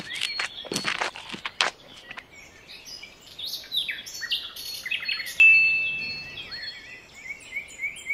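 Birds chirping and twittering in many short calls, with one louder held whistle about five seconds in.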